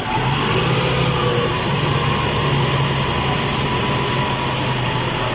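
2010 Toyota Camry engine idling steadily with a constant low hum. It is running again after a crank-but-no-start fault that was traced to a blown fuse.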